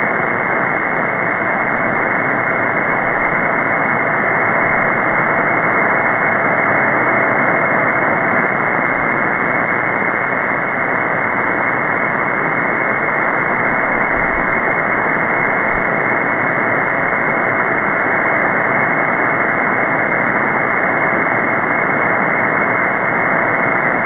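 Steady shortwave hiss from an SDRplay RSPduo receiver on 14.325 MHz upper sideband, narrowed to a muffled voice-band rush with a faint steady tone running through it. It is open-band noise with no station transmitting on the net frequency.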